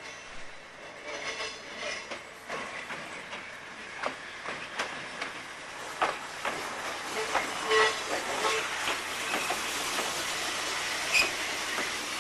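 Kurihara Electric Railway single-car electric railcar approaching slowly over curved track and points, growing louder as it nears. Its wheels click irregularly over rail joints and points, with brief wheel squeals about a second and a half in and again around eight seconds.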